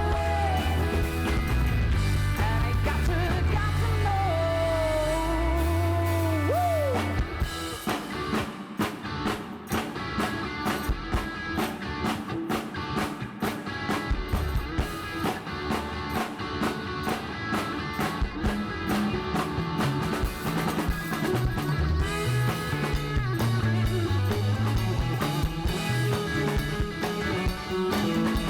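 Rock band playing an instrumental intro: held bass notes under a bending, gliding lead line, then the drum kit comes in with a steady beat about seven seconds in, with guitar.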